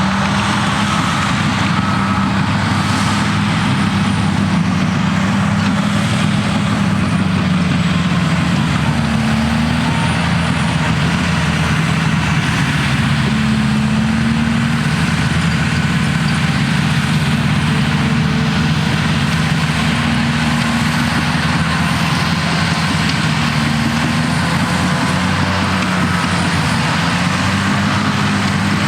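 Cat D6T bulldozer's six-cylinder diesel engine running steadily under load while stripping topsoil, its note drifting up and down a little as the load changes.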